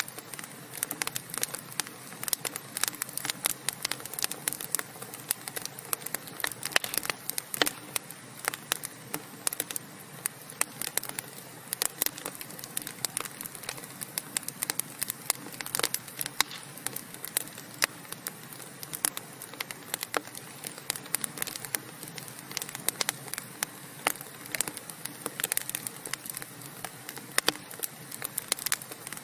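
Logs burning in a fireplace, crackling steadily: many sharp, irregular pops and snaps over a soft hiss.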